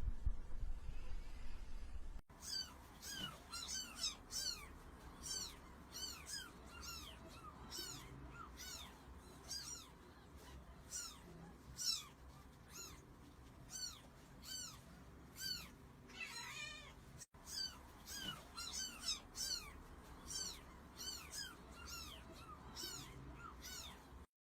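A kitten mewing over and over in short, high mews, one or two a second, with a quicker run of calls shortly before a break about seventeen seconds in.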